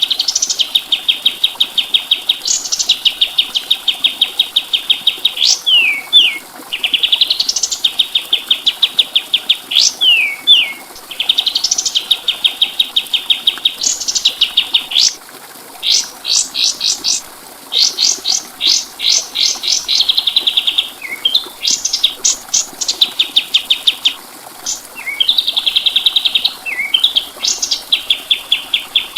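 Kapas tembak songbird singing: long, fast trills of clipped repeated notes broken by sharp rising whistles and short falling slurs, phrase after phrase with brief pauses.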